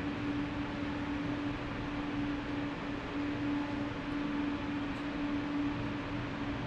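Steady machine hum and rush with a constant low tone, unchanging throughout.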